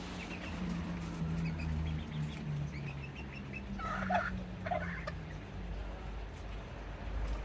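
Serama bantam chickens clucking softly, with two louder short calls about four seconds in, over a low steady hum.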